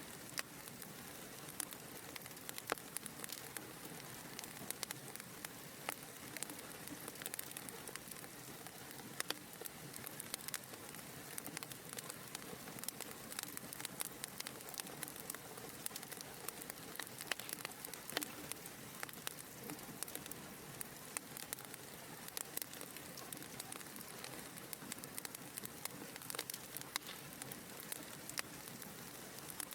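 Fire crackling in a fireplace: a steady soft hiss with frequent, irregular sharp pops and snaps.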